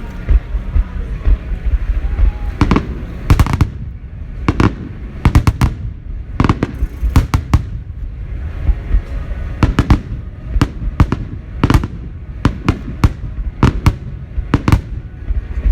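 Aerial fireworks shells bursting overhead: about twenty sharp bangs in irregular succession, some in quick pairs, over a continuous low rumble of the display.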